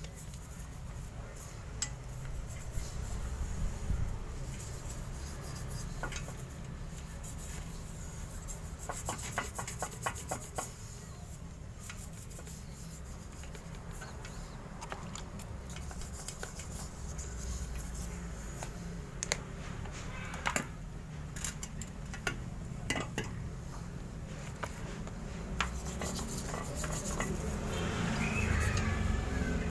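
Toothbrush scrubbing a wet cleaning mixture over a metal motorcycle exhaust pipe: light scratching strokes with occasional clicks and taps, over a steady low rumble.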